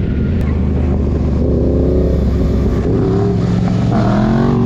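Motorcycle engine running, with a steady low rumble and an engine note that shifts up and down in pitch from about a second and a half in.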